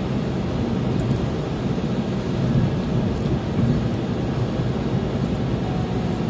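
Steady low rumble of a car on the move: road and engine noise, with no sudden sounds.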